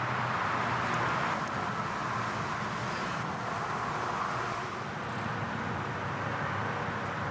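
Steady outdoor background noise, a constant wash like distant road traffic, with no distinct events.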